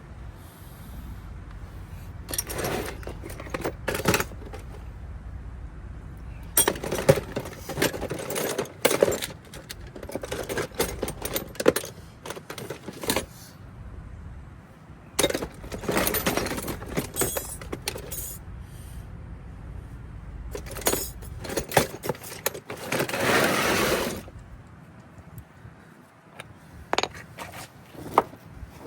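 Small metal objects clinking and jangling in several bursts, with pauses between them.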